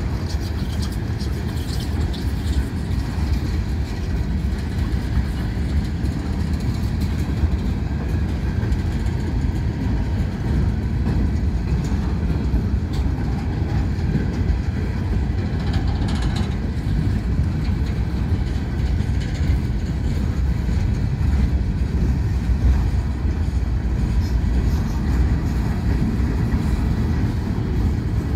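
Freight train cars, tank cars and then boxcars, rolling past: a steady rumble of steel wheels on the rails, with clickety-clack from the wheels.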